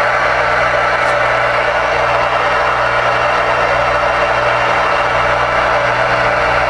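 Galaxy DX-959 CB radio receiving on the air: steady static hiss from its speaker, with a low steady hum under it.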